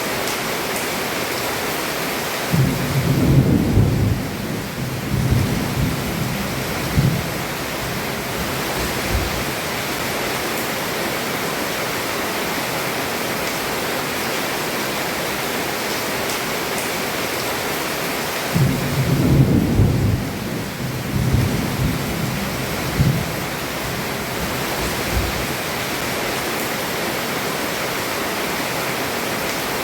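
Heavy rain falling steadily on a roof, with two low rolls of thunder, one starting about three seconds in and another about two-thirds of the way through, each rumbling for several seconds.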